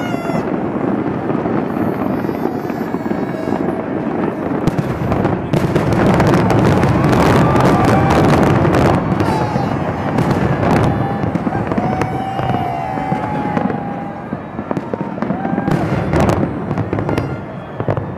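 Aerial fireworks going off in a rapid barrage of bangs and crackles. The barrage thickens about five seconds in and is loudest for the next few seconds. It then thins out, with a last flurry near the end.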